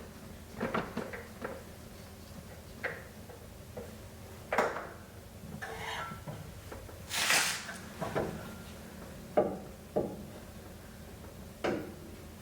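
Scattered knocks, clicks and short rustles of a spin-on oil filter being unscrewed by hand and worked out from under the engine, with one longer scraping rush about two thirds of the way through.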